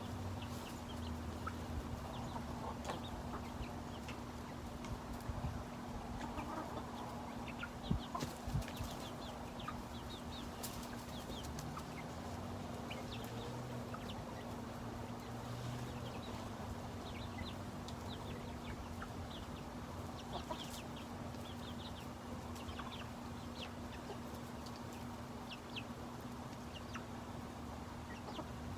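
Backyard chickens making many short high calls while being fed, over a steady low hum, with a couple of knocks about eight seconds in.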